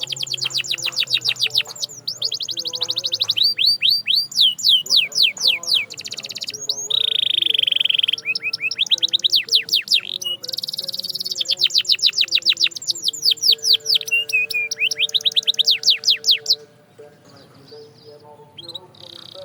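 Domestic canary singing: fast trills of repeated downward-sweeping high notes, broken by a short held whistle about seven seconds in. The song breaks off about seventeen seconds in.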